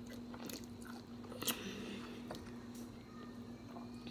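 Close-up eating sounds: chewing and biting, with a few sharp crunches or clicks, the strongest about a second and a half in, over a steady low hum.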